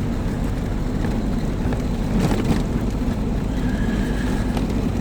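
Old car's engine running and road rumble heard from inside the cabin, with a few knocks a little over two seconds in and a faint high squeak lasting about a second near the end.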